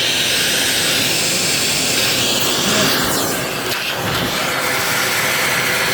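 Vacuum cleaner running steadily with a loud, even rush of air; it has just been switched on.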